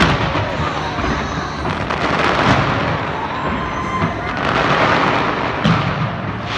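Aerial fireworks exploding in quick succession: a continuous crackling haze with several sharp bangs, about four of them standing out.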